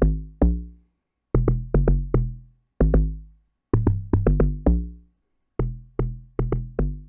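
Amapiano log drum, a synthesized pitched bass drum, playing a solo pattern through Camel Crusher distortion and compression: short, punchy notes on different pitches, each hitting hard and dying away quickly, in groups of three to five with short silent gaps between them.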